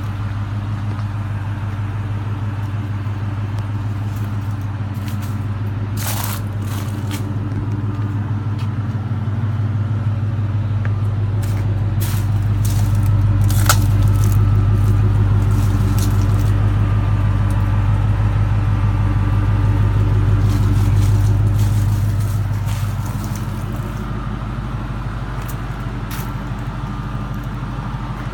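The engine of an '03 Harley-Davidson edition pickup truck running steadily. It grows louder for several seconds in the middle, then settles back. A few sharp clicks stand out.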